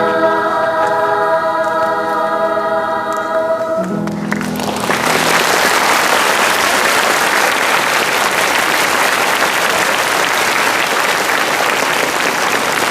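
A choir holds a final sustained chord that ends about four and a half seconds in, then the audience breaks into applause.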